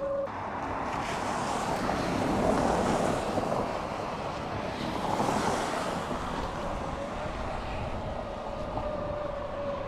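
Wind rushing over the microphone while riding a Surron electric dirt bike, swelling twice, with the electric motor's faint steady whine coming through in the second half.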